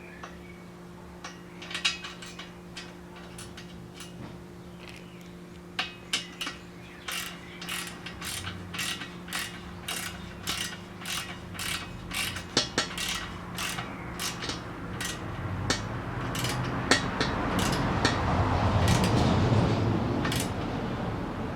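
A ratchet clicking in a regular run of strokes, about two to three a second, starting about six seconds in. Near the end the clicks give way to a swelling rushing noise.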